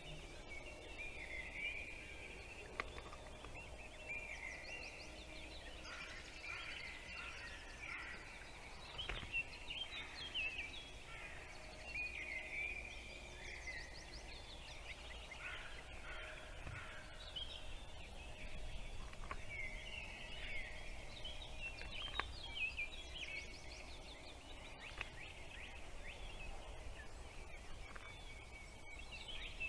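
Small birds chirping busily, a rapid stream of short high chirps and quick up-and-down notes, over a faint steady low background noise.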